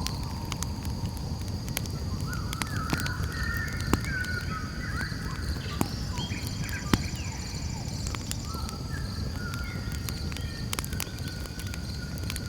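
Campfire crackling, with scattered sharp pops; the loudest come about 4, 6 and 7 seconds in. Behind it runs a steady high insect chirring, and wavering animal calls rise and fall through the middle and again near the end.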